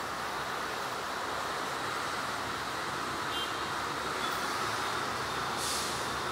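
GE CC206 diesel-electric locomotive hauling a passenger train as it approaches: a steady rushing rumble of engine and wheels on rail that grows slightly louder, with a brief hiss about five and a half seconds in.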